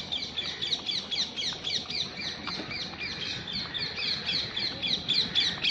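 A flock of birds calling: many short, high chirps that drop in pitch, several a second and overlapping, without a break.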